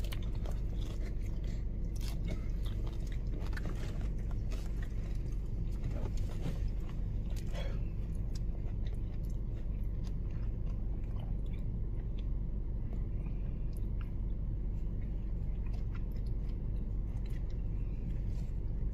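Close-up chewing and biting of a pizza sub's crust, with many short crunchy, wet mouth clicks, over a steady low hum.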